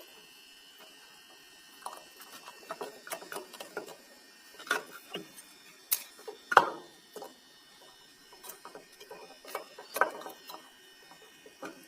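Irregular small plastic clicks and taps from handling a small lead-acid battery and working at its cell caps, with a few sharper knocks about five, six and a half and ten seconds in.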